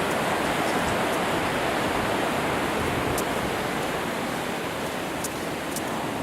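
Steady wash of ocean surf breaking on the beach, an even rushing noise.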